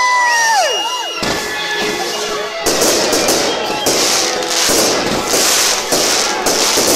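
Fireworks going off: whistling rockets rising and falling in pitch for about the first second, then a dense run of crackling bursts from about three seconds in.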